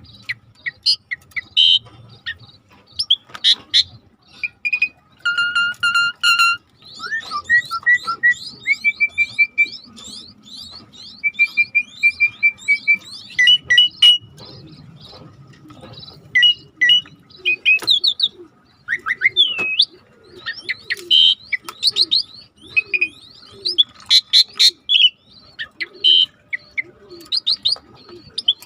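A starling singing a fast, varied song of chirps, trills, short held whistles and quick down-slurred notes, with hardly a pause.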